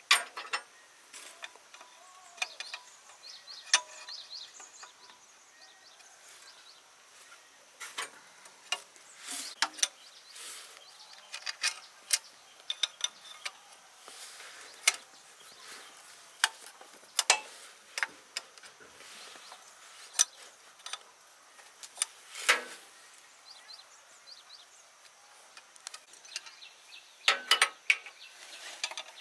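Irregular metallic clicks, taps and clinks of hand tools working on machine parts, with no steady engine or motor sound.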